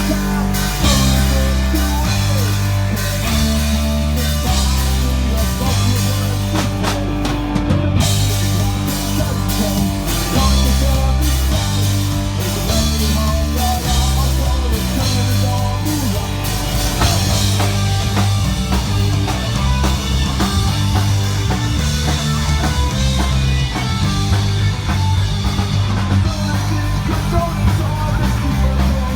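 Punk rock band playing live and loud, with a driving drum kit, a moving bass line and electric guitars.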